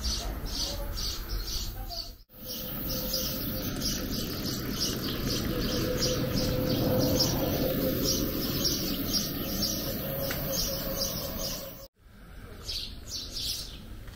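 A bird chirping over and over, about two or three short high chirps a second, over steady low background noise. The sound cuts out completely for a moment twice.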